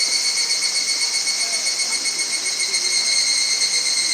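Steady insect chorus, trilling continuously at several high pitches at once with no pause.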